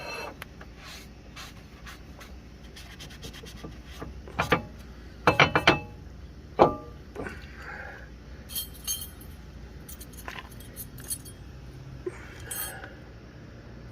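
Metal brake parts and hand tools clinking and knocking during a brake pad job, with scattered light taps and a quick run of four knocks about five seconds in.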